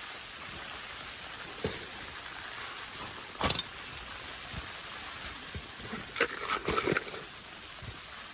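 Steady hiss of blizzard wind and blowing snow. A few knocks and rustles of handling sound over it: one a little over a second and a half in, a louder one about three and a half seconds in, and a quick cluster between six and seven seconds.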